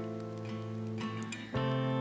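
Background music: a strummed acoustic guitar chord ringing out, with a new chord struck about one and a half seconds in.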